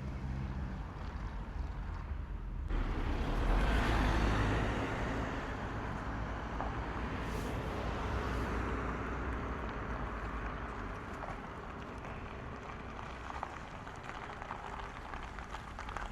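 Street traffic: a car passes close by. Its engine and tyre noise starts suddenly, peaks a second or two later, then fades slowly. Before it comes in, a low steady hum.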